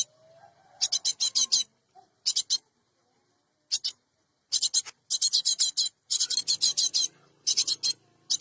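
Cinereous tit (gelatik batu) calling in repeated bursts of rapid, harsh, high-pitched notes. Each burst lasts well under a second, with short pauses between them.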